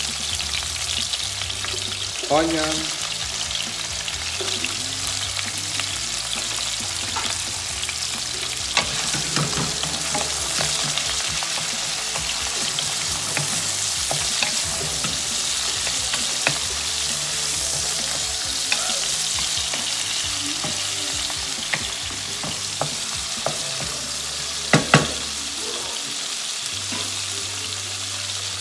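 Pork, garlic and onion sizzling steadily in oil in a non-stick frying pan, stirred with a wooden spatula that scrapes and taps against the pan now and then. The loudest taps are a quick double knock near the end.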